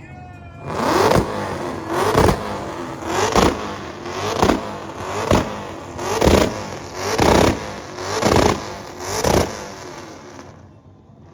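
A car engine revved over and over, about eight times roughly a second apart. Each rev climbs in pitch and then drops off sharply.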